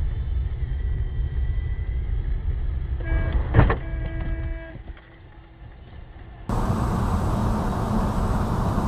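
Dashcam recording of a car's engine and road rumble, with a steady pitched tone and a knock about three and a half seconds in. Near the end the sound switches abruptly to a different recording with louder road noise.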